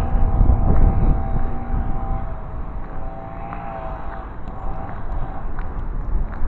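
A heavy engine running steadily, with a slight waver in pitch about three to four seconds in, under low rumbling wind buffeting the microphone, strongest in the first second or so.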